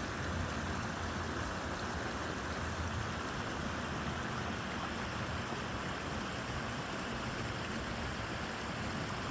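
Steady rushing of flowing water from a stream or waterfall, an even hiss with a deeper rumble underneath.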